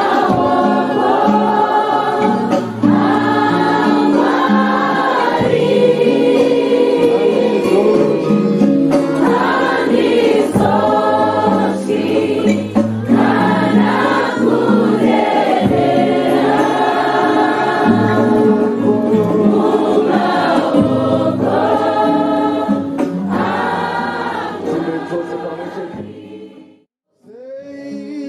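A group of voices singing a worship hymn together, fading out near the end.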